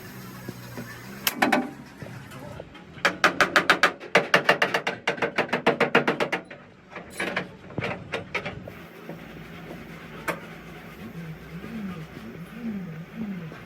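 Rapid hammering in a car workshop: a fast even run of sharp strikes, about seven a second for some three seconds, with a few single knocks before and after. A steady low hum runs underneath.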